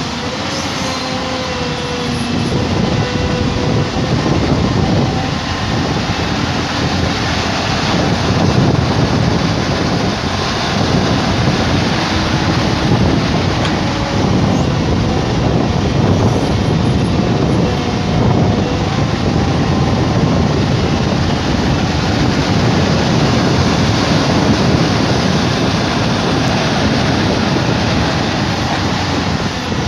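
Tata Hitachi excavator's diesel engine and hydraulics running steadily while it works, a loud continuous rumble.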